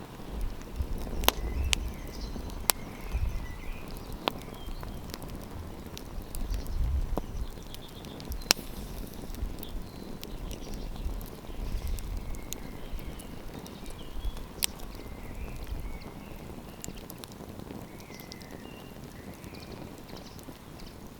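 Wood campfire crackling, with sharp pops scattered through, over a low wind rumble on the microphone that dies away about three quarters of the way in. Faint bird chirps sound in the background.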